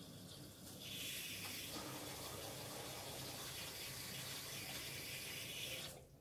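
Miele W1 WKF 130 washing machine taking in water: a rushing hiss starts about a second in as the inlet valve opens and cuts off abruptly near the end as it shuts, over the machine's steady low hum.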